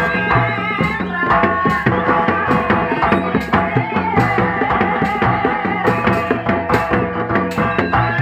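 Live jaranan gamelan music: hand drums beating a busy, even rhythm under a wavering melodic line, with no break.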